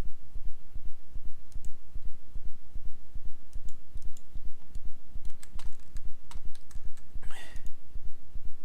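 Scattered sharp computer mouse and keyboard clicks over a steady low throbbing of about three to four pulses a second. There is a short hiss about seven seconds in.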